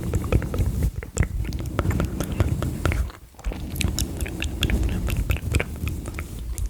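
Brushes swept over the microphone: a close, rumbling, crackling rustle with many small wet clicks of mouth sounds. It comes in two long passes with a short break about three seconds in.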